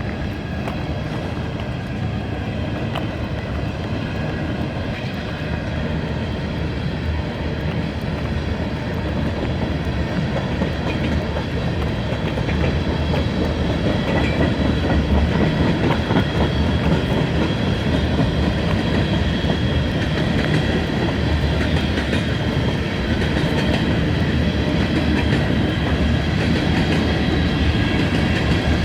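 Freight train rolling past, its wheels clattering over the rail joints in a steady rumble that grows louder about halfway through.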